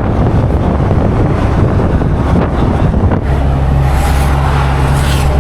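Bus running on the road, engine and road rumble mixed with wind buffeting the microphone. About three seconds in, a steady low engine drone takes over.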